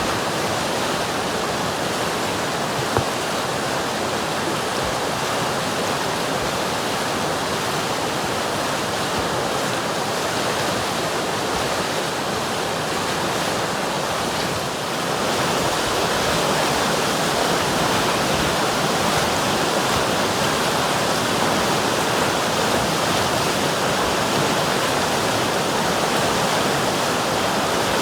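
River water rushing in a steady, even stream of noise, growing slightly louder about halfway through.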